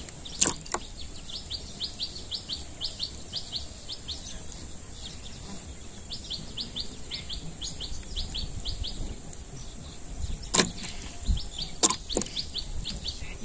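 A small bird calling runs of short, high, rising chirps, about four a second, in three spells with pauses between. A few sharp clicks sound about half a second in and twice near the end.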